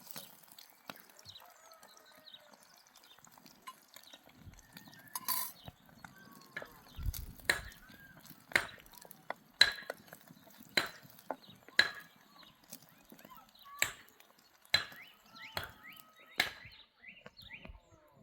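Sharp knocks repeating steadily about once a second, with faint bird chirps between them.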